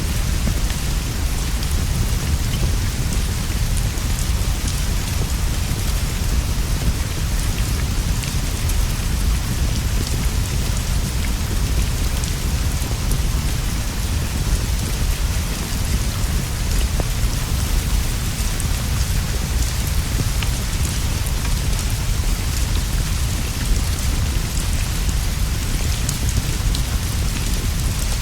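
Steady rain falling on leaves and a straw roof, an even hiss over a constant deep rumble, with scattered small crackles and pops from a wood fire.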